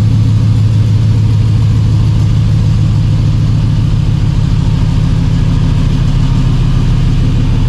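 A 1957 Chevrolet Bel Air's swapped-in 5.3-litre LS V8 idling steadily, with no revving.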